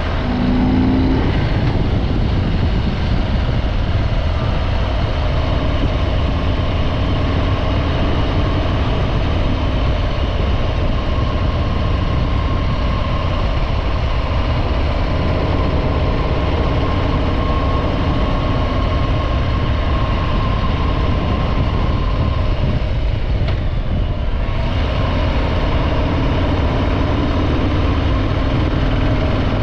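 Harley-Davidson Breakout 114's Milwaukee-Eight 114 V-twin running through its stock exhaust at a steady pace, with a brief change in tone about three-quarters of the way through.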